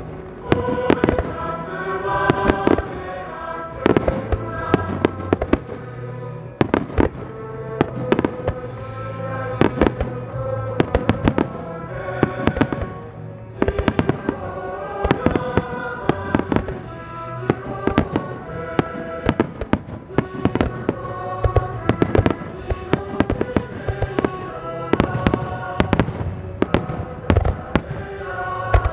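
Fireworks shells bursting in a rapid-fire barrage, many sharp bangs every second or so, over music playing throughout.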